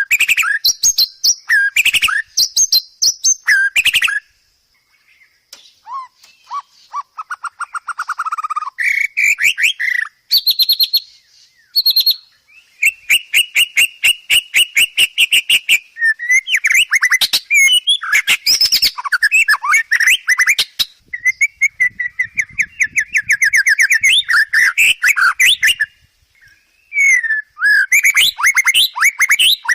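White-rumped shama (murai batu) singing a long, varied song of rapid trills and quickly repeated chattering notes, full of mimicked phrases of other birds, with a short break about five seconds in.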